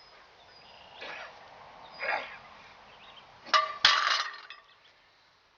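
Metal barbell and weight plates clanking: two sharp, ringing metal hits close together about three and a half seconds in, after two softer rustling sounds.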